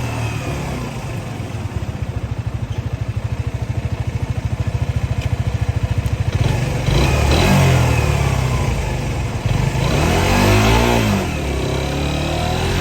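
A vehicle engine under engine braking, giving a rapid, even staccato pulsing for several seconds, then its pitch rises and falls as it revs from about halfway through.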